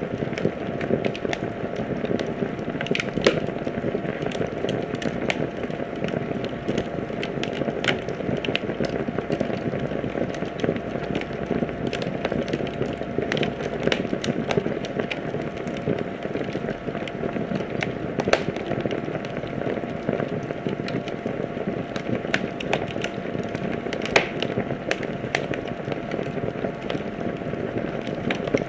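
Wood fire burning in a fireplace with a steady rushing hiss and frequent irregular crackles and pops, a few sharper snaps standing out.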